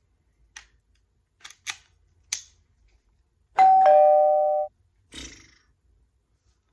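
A few light clicks, then a two-note electronic chime, high note then low, ringing for about a second like a ding-dong doorbell.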